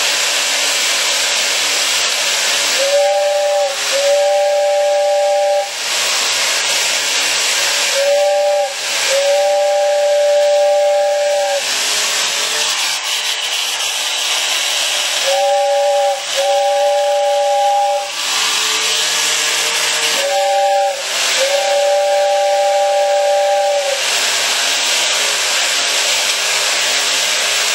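Toy tin train running with its steam sound effects: a steady hiss of steam, broken by a two-note whistle blowing a short toot and then a longer one. The pair comes four times, and a fifth starts near the end.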